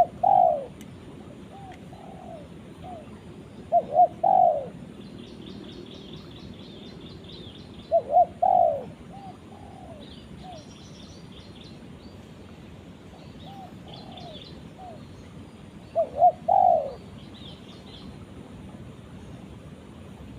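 Spotted dove (tekukur) cooing: four phrases, each of two short notes and a longer one followed by softer notes, repeated about every four seconds with a longer gap before the last. Faint chirps of small birds come between the phrases.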